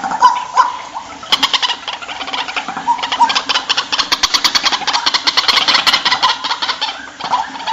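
White-breasted waterhen calling: short harsh notes, then a long fast run of rattling, repeated notes at about ten a second, ending in a few more short notes.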